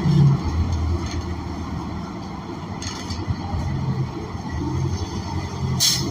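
Cummins Westport ISL G natural-gas engine of a New Flyer XN40 transit bus running as the bus drives, a steady low hum heard from inside the passenger cabin. Two brief clicks sound about three and six seconds in.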